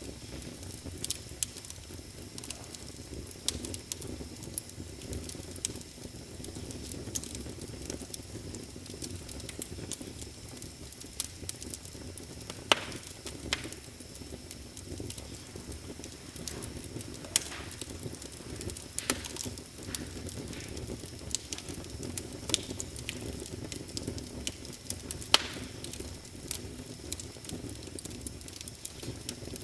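Wood fire crackling in a fireplace: a steady low rumble of flames with frequent sharp snaps and a few louder pops. A faint steady high-pitched tone runs underneath, typical of insects at night.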